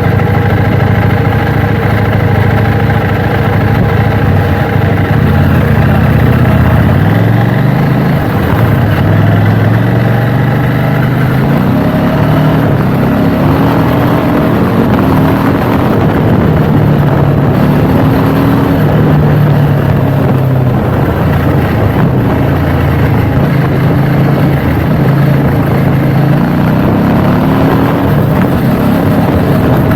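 KTM 790 Duke's parallel-twin engine running steadily, then from about seven seconds in rising in pitch in several successive pulls, as when accelerating through the gears, and varying in speed after that.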